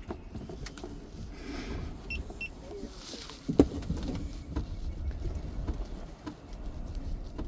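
Two short electronic beeps from a GoPro camera being switched on, among handling clicks and rustles, with a sharp click about halfway through and a steady low rumble underneath.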